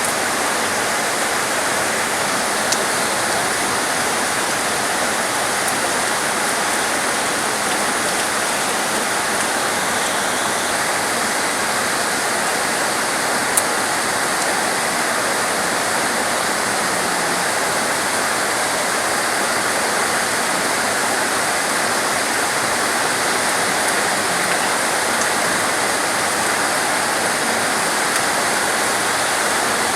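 Steady heavy rain, an unbroken hiss of falling water, with a single sharp tick about a tenth of the way in and another a little before halfway.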